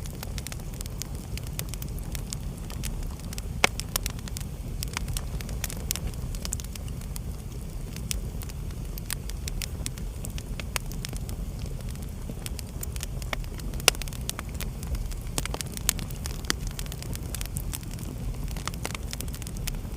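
Wood fire burning in a fireplace: a steady low rumble of the flames with irregular crackles and sharp pops, two pops standing out, one a few seconds in and one about two-thirds through.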